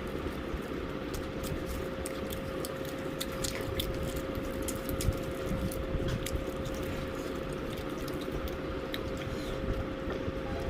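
A person chewing fried chicken, with scattered small crunches and clicks. Under it runs a steady low rumble with a constant hum.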